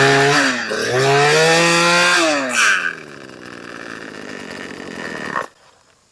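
Husqvarna 240 two-stroke chainsaw, running on a freshly fitted replacement engine, revving up and down under the throttle, then dropping to a quieter idle about three seconds in. It stops suddenly about five and a half seconds in.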